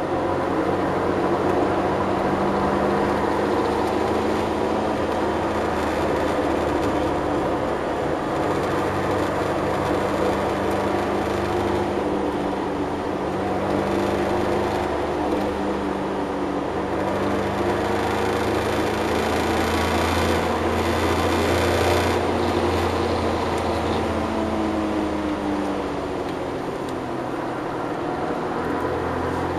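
Suzuki Cappuccino EA11R's 657 cc turbocharged three-cylinder F6A engine under way on track, heard from inside the cabin with road and wind noise. The engine note climbs slowly under power for most of the stretch, then drops and falls away near the end.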